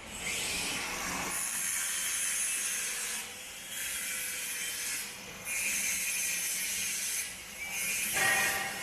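Factory machinery hissing in four stretches of one to three seconds, with short breaks between them.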